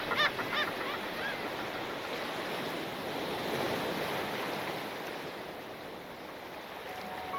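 Sea surf breaking and washing up a beach: a steady rushing that swells, eases off, then builds again near the end.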